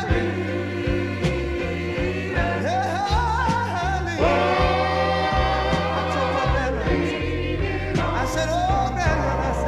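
Gospel group singing with a band: a lead voice bending between notes and backing voices joining on a held chord about four seconds in, over a stepping bass line and steady drum hits.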